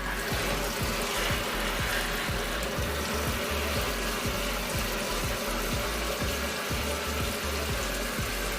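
Water running steadily into the wash tub of a twin-tub portable washing machine as it fills for the rinse cycle, with background music.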